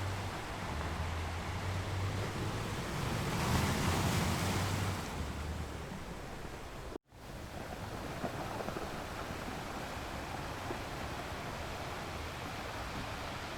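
Ocean waves breaking on a beach: a wave swells and washes in about four seconds in, then the sound cuts out for an instant about seven seconds in before steady surf carries on.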